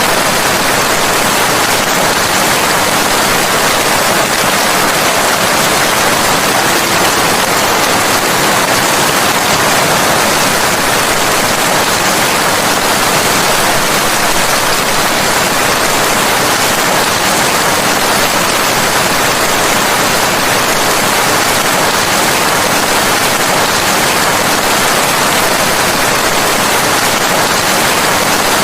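Steady heavy rain: a loud, even hiss with no single drops, thunder or other sounds standing out.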